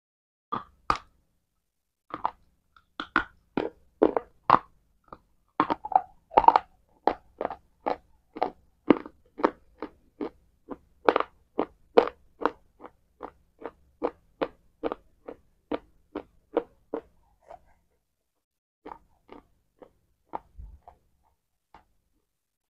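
A person biting and chewing something hard and crunchy close to a clip-on microphone: sharp crunches about two a second, thinning to a few scattered ones over the last few seconds.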